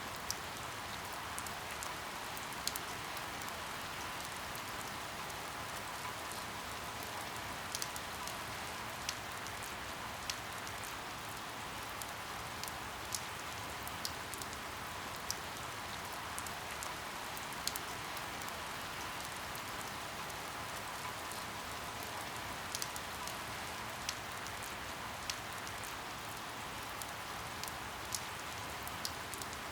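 Steady rainfall, an even hiss of rain with single sharp drips striking a hard surface every second or two.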